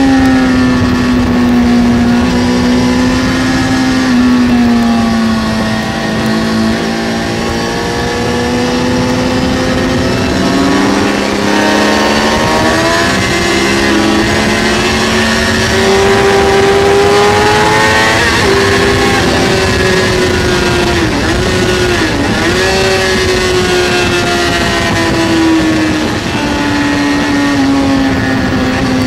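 2003 Kawasaki ZX-6R's inline-four engine running at high revs on track, over a steady rush of wind noise. The engine pitch slowly rises and falls, with two quick sharp dips about two-thirds of the way through.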